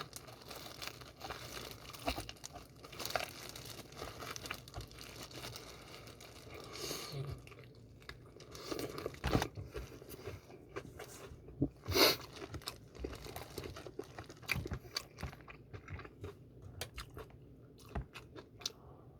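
Biting into and chewing seasoned fried chicken (BHC Puringkle), with repeated crunches of the crisp coating. One louder crunch comes about two-thirds of the way through.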